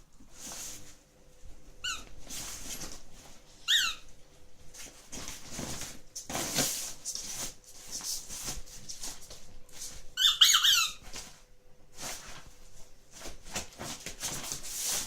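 A squeaky toy ball being squeezed: single short falling squeaks about two and four seconds in, then a quick run of several squeaks a little past the middle, with rustling and scuffling handling noise in between.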